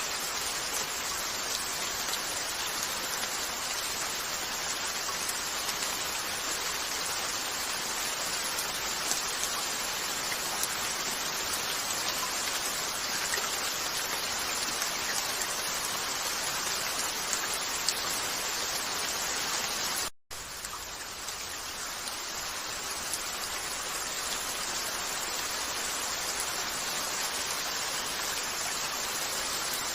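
Steady rain, a dense even patter with a few faint ticks. About two-thirds of the way through it cuts out for a split second, then comes back.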